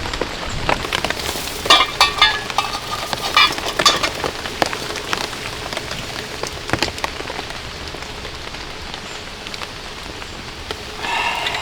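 Steady rain falling, with many separate drops tapping.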